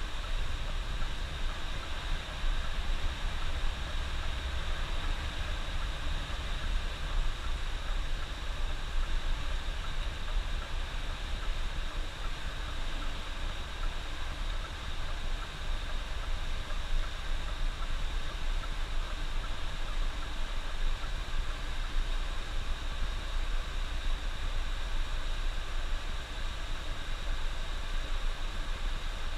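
Bus on the highway: steady low engine and road rumble with an even hiss over it.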